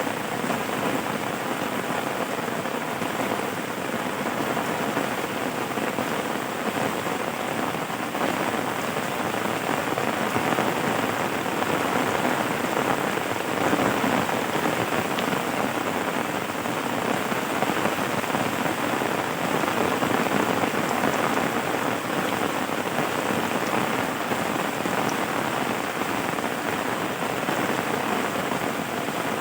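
Steady rain falling, an even, unbroken patter of many drops.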